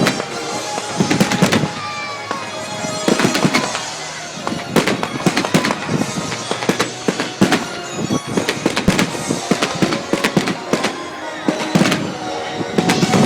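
Fireworks bursting in quick, irregular succession, with sharp bangs and crackling over music.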